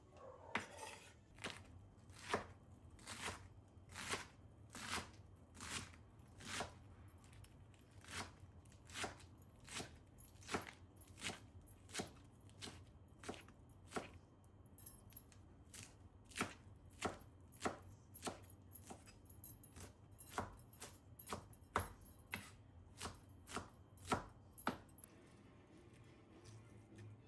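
Kitchen knife chopping on a cutting board in steady, even strokes, about three every two seconds, stopping shortly before the end.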